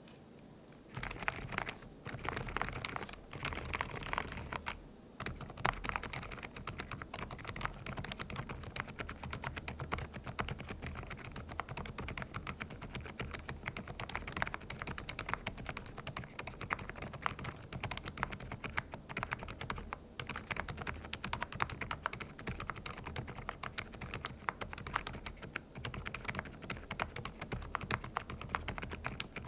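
Fast, continuous typing on an Aula F87 mechanical keyboard with Osume Little Ghost silent linear switches, giving soft, muffled keystrokes. The typing starts about a second in.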